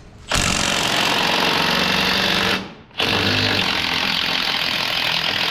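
Power impact wrench running in two long bursts on a portal bolt, with a short pause between them.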